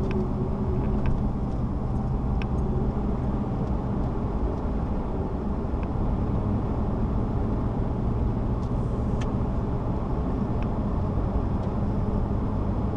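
Steady engine and road noise heard inside a moving car's cabin, an even low rumble with no change in pace.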